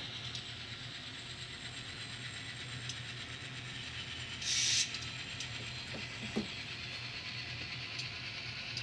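N scale model locomotive running along its track with a steady motor hum and faint clicks from the wheels, as it works through a stretch of rail fouled with spray paint. A brief hiss comes about four and a half seconds in.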